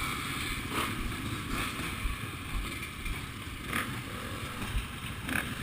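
A steady, noisy outdoor rumble of vehicle engines, with wind on the microphone and a sharp knock near the end.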